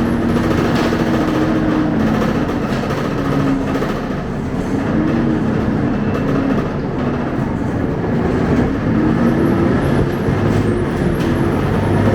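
Scania K270UB bus running on the road, its engine and drivetrain making a steady din with a low hum that rises and falls in pitch as the bus speeds up and slows.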